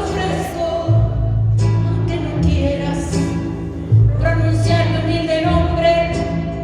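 Live band playing a slow ballad, with a steady bass line under a sung melody.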